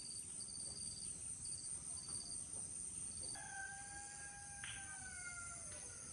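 Insects chirping and trilling steadily in a high-pitched chorus. About halfway through, a long call begins that slowly falls in pitch over a couple of seconds.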